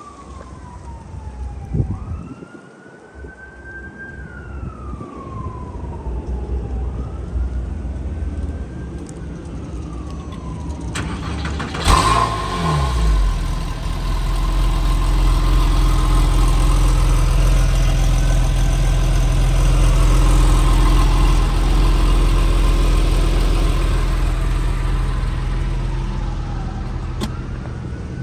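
Porsche 997 Carrera S's 3.8-litre flat-six cold start: it cranks and catches about twelve seconds in, then holds a steady fast cold idle that eases slightly toward the end. Before the start, a siren-like wail rises and falls.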